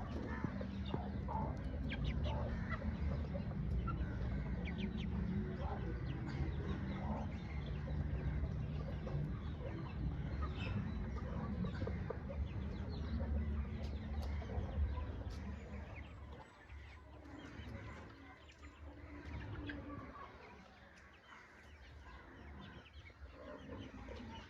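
A flock of young chickens clucking and peeping, with many short calls scattered throughout. A steady low rumble underlies the first two-thirds and drops away about sixteen seconds in.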